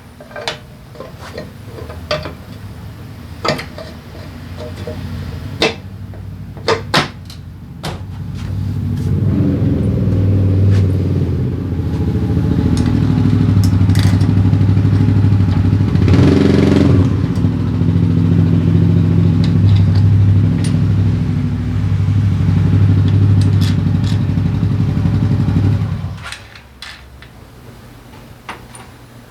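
A few light tool clicks and knocks, then the Daelim Citi Ace 100's 100cc engine runs steadily for about eighteen seconds after the clutch-lifter repair and cuts off abruptly.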